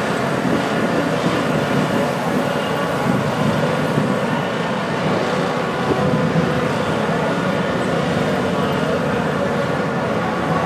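Several heavy, roughly 1,000-pound motorcycles with their engines running steadily at low speed as they ride in formation.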